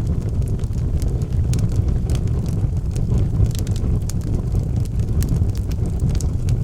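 Wood fire burning in a fireplace: a steady low roar of the flames with irregular sharp crackles and pops from the burning logs, several a second.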